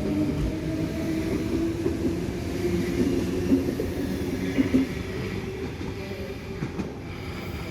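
Electric metro train moving at the platform, a steady motor whine over a rumble that fades about five seconds in.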